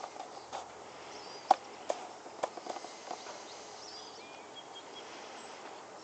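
Outdoor lakeside ambience: small birds chirp briefly now and then, and a cluster of sharp clicks and knocks falls in the first three seconds, the loudest about a second and a half in.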